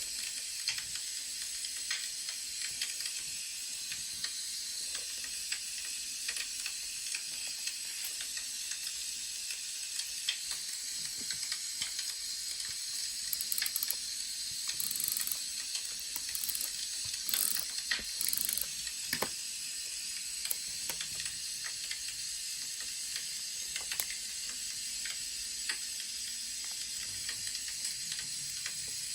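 Wood fire crackling: a steady hiss with scattered sharp pops. A few short, louder scratchy bursts come about halfway through.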